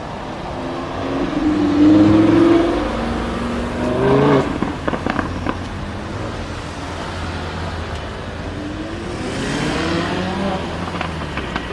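Lamborghini Huracan LP610-4's V10 engine revving and accelerating, climbing in pitch twice early on, with a quick run of crackles about four to five seconds in. It then runs steadier before rising again in pitch near the end.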